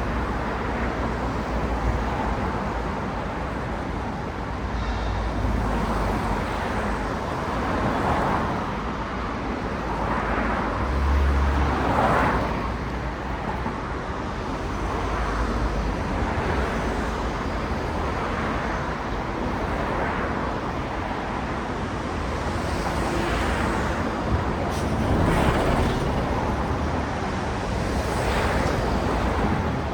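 Steady city road traffic, cars passing one after another, each rising and fading as it goes by, with the strongest pass about twelve seconds in.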